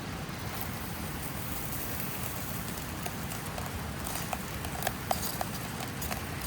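Food frying in a pan with a steady sizzle: rice frying in bacon fat. A few light clicks and knocks, like a utensil against the pan, come between about three and five and a half seconds in.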